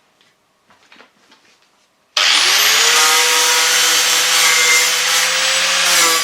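Faint handling clicks, then about two seconds in an angle grinder fitted with a flap wheel starts up, its whine rising as it spins to speed, and runs steadily, grinding the rusted sill edge back to clean metal for welding.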